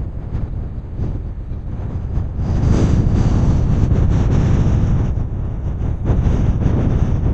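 Strong wind buffeting the microphone, a loud low rumble that gusts harder about two and a half seconds in.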